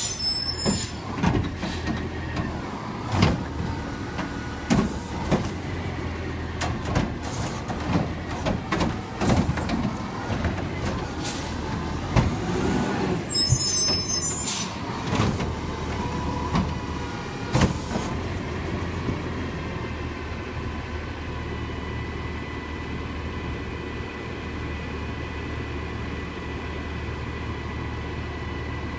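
Garbage truck working a yard-waste pickup: the diesel engine runs under a series of clanks and knocks for the first half, with a brief high squeal about midway. Then it settles into a steady running sound with a thin, even whine.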